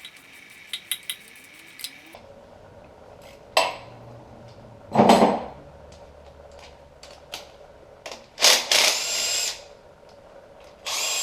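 A cordless power tool whirring in two short bursts, the second at the very end, as it backs out the engine's timing chain guide bolts. There are light metal clinks in the first couple of seconds and a heavier clatter about five seconds in.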